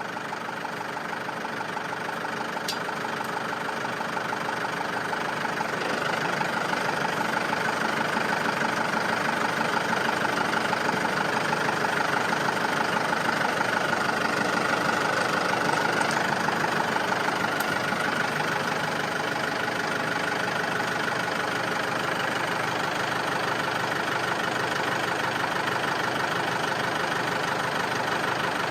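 Tractor engine running steadily while working its pallet forks to pull T-posts from the ground. It grows louder over the first several seconds and then holds.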